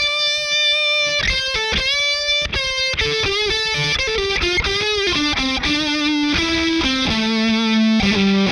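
Electric guitar played through a Ross Distortion pedal, a single-note lead line: a held note, then notes bent with vibrato about two seconds in, then a run of notes stepping downward.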